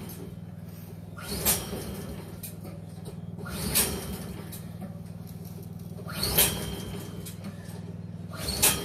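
Repeated pulls on the recoil starter of a Briggs & Stratton 163cc snowblower engine, four in all at about two-second intervals, each a short build-up that ends sharply, with the engine not catching, over a steady low hum.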